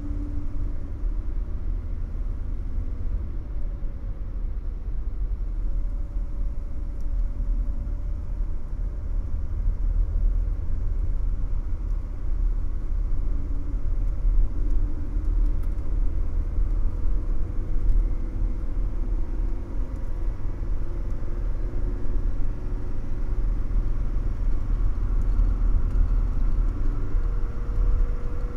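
Mercedes-Benz W123 300TD's diesel engine running steadily under light load, heard from inside the cabin as a continuous low rumble with a faint wavering whine above it.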